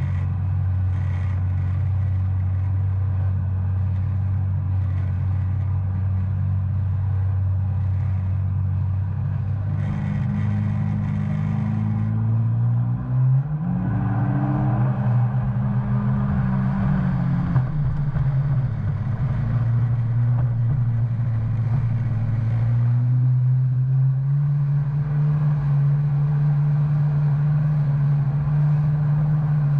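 2019 Yamaha FX SVHO Waverunner's supercharged four-cylinder engine running under way. Its steady pitch climbs about a third of the way in and wavers up and down, then settles at a higher steady note for the last several seconds.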